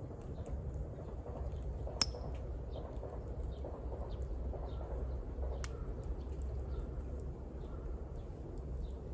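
Wood fire burning with a low steady rumble, a sharp pop about two seconds in and another a little past halfway, and faint crackles between.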